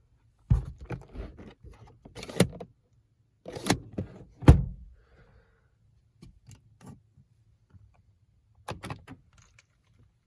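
Clicks and knocks of the car's glove box being handled: its latch and plastic lid opening and shutting. Four sharp knocks come in the first five seconds, then fainter ticks and taps.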